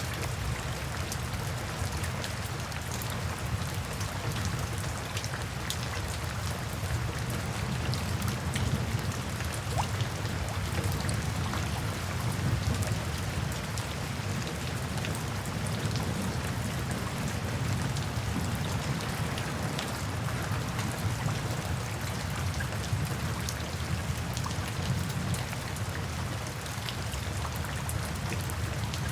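Steady rain with many small drop impacts pattering on a surface, and a low rumble underneath.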